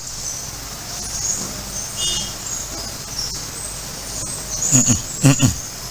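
High-pitched insect chirping goes on steadily, with a short higher chirp about two seconds in. A man's voice comes in near the end.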